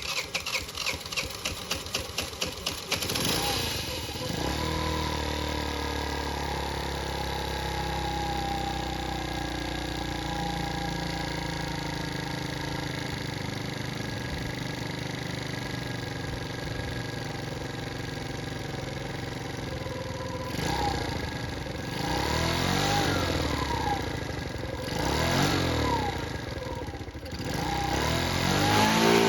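A 50cc GY6 scooter engine, fitted with a 34 mm racing carburetor, cranks over in quick even pulses and catches about three seconds in. It idles steadily and is then revved up and down four times near the end.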